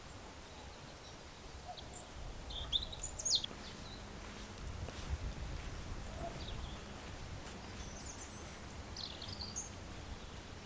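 Small birds giving short, high chirps now and then over a faint low rumble of wind.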